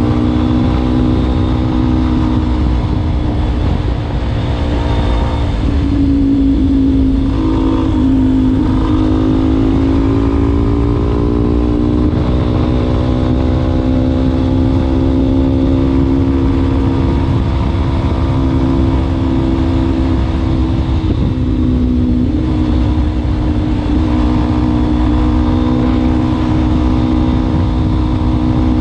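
Yamaha Ténéré 250's single-cylinder four-stroke engine running through an aftermarket Wacs exhaust muffler, over a heavy low rumble. The engine pitch dips about six to eight seconds in, climbs gradually over the next few seconds, then holds fairly steady with another brief dip a little past two-thirds of the way through.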